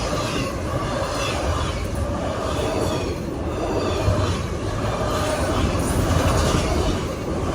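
CSX autorack freight cars rolling past on the rails: a steady, continuous rumble of steel wheels on track, with a faint steady whine of wheel squeal over it.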